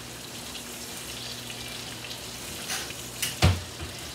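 Pieces of chicken breast frying in a pan, a steady sizzle over a low steady hum. A single sharp knock about three and a half seconds in, with a few faint clicks just before it.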